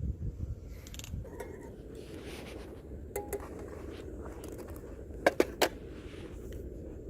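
A few sharp metallic clinks, like metal camp gear or cookware being handled, with three close together about two thirds of the way through, over a steady low rumble.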